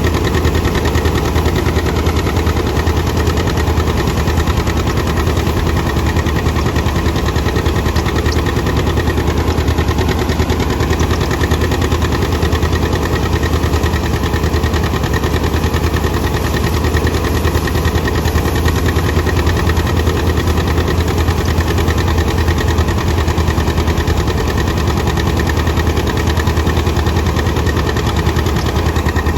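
Tractor engine running steadily with a fast, even beat, holding the same speed throughout.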